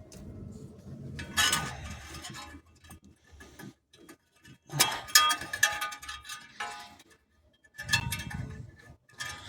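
Metal clinking and rattling in three short spells as a heat-resistant metal band clamp is worked into place around a loose exhaust heat shield, the metal parts knocking and ringing against each other.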